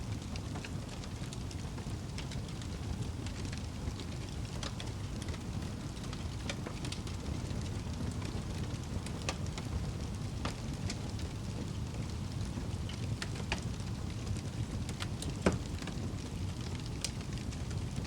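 Wood fire burning in a fireplace: a steady low rumble of the flames with scattered crackles and pops, one loud pop about fifteen seconds in.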